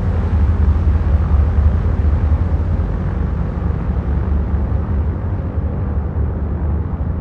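Radial piston engines of a B-29 Superfortress (Wright R-3350s) running with a steady deep rumble, easing slightly toward the end.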